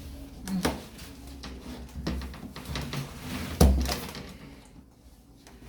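Knocks and clatter of a washing machine's panels and parts being handled during repair, with a heavier thump about three and a half seconds in.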